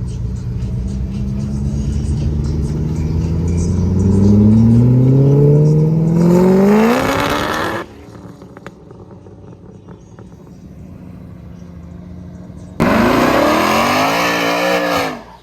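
A car engine revving hard, its pitch climbing steadily for several seconds to a loud peak, then cutting off suddenly. After a quieter stretch there is a second loud burst of engine revving with a wavering pitch, which also stops abruptly.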